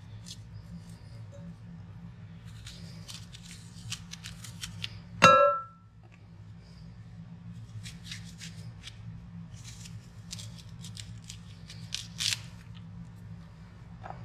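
Sharp knife slicing apples in groups of short, crisp cutting strokes, with one loud ringing clink about five seconds in.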